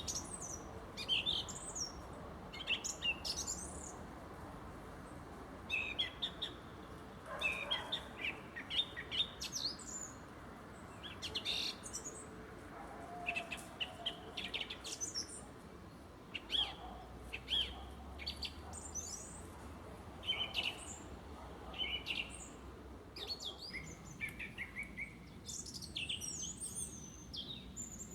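Several songbirds singing and chirping in a spring forest dawn chorus: short, high, quick phrases from different birds overlapping and following one another, over a steady low background hiss.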